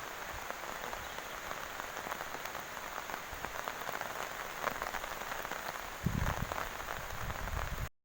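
Heavy rain pouring steadily, a dense crackle of drops hitting the ground. About six seconds in, a low rumble of wind buffeting the microphone joins it, until the sound cuts off abruptly near the end.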